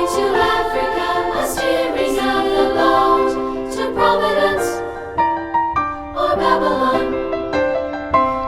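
Choir singing an upbeat two-part choral song with accompaniment; about halfway through the texture thins to short, separate notes before the full sound returns near the end.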